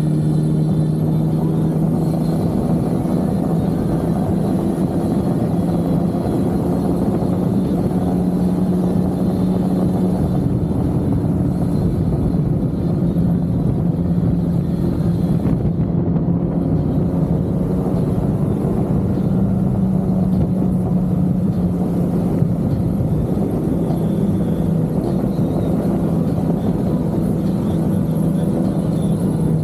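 BMW K1600B's inline-six engine breathing through a Remus aftermarket exhaust, ridden at a steady cruise; the engine note holds nearly level with small rises and dips.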